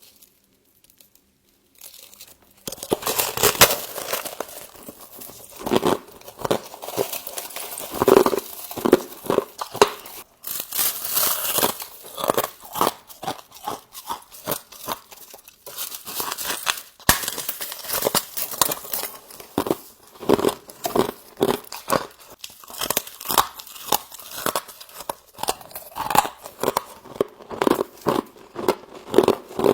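Humidifier frost being bitten and chewed close to the microphone: a rapid, irregular run of crisp crunches and crackles that starts a few seconds in.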